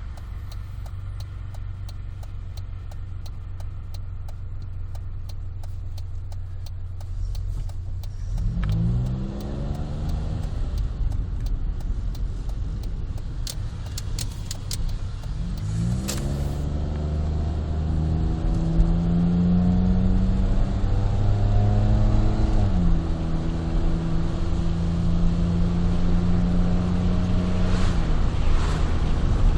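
Honda Life JB5's engine breathing through a Rosso Modello GT-8 aftermarket muffler, heard from inside the car with the window open. It starts with a steady low hum over road noise. About a third of the way in the engine note rises as the car accelerates, and it rises again about halfway through. The note is held high for a few seconds, then drops slightly into a steady cruise.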